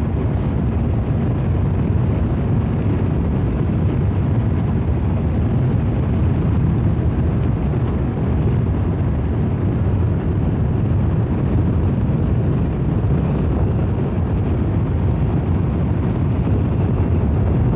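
2021 BMW S1000XR's inline-four motorcycle running steadily at cruising speed, its low engine drone mixed with a continuous rush of wind on the microphone.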